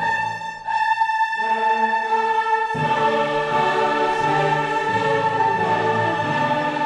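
Classical choral music with orchestra: a choir singing sustained chords, with the texture thinning briefly about a second in before the full sound returns.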